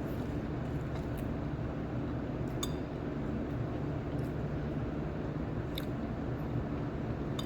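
A spoon clinking faintly against a bowl a few times during eating, over a steady low hum.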